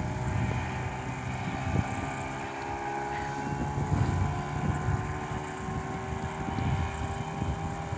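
Small outboard motor running at a steady pitch while the boat is under way, with wind noise on the microphone.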